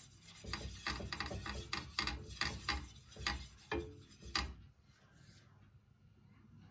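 Kitchen utensils clicking and scraping in a quick, uneven run for about four seconds, then stopping.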